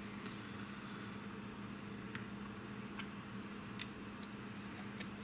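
Faint, steady low machine hum with a few faint short ticks scattered through it.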